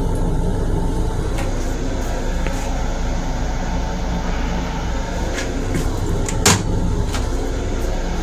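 Steady low hum of a Long Island Rail Road M7 railcar heard inside its small restroom, with a few light clicks and one sharp knock about six and a half seconds in.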